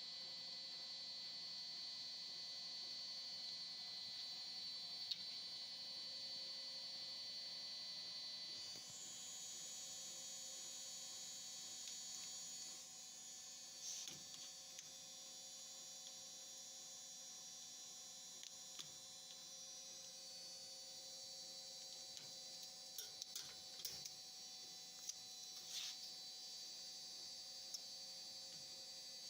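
Faint steady electrical hum with a thin high whine that shifts in pitch about nine seconds in, and a few light clicks later on.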